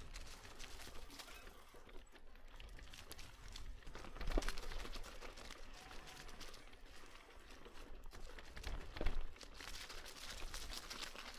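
Footsteps crunching along a forest trail in an irregular walking rhythm, with two louder steps or knocks about four and nine seconds in, over a low rumble.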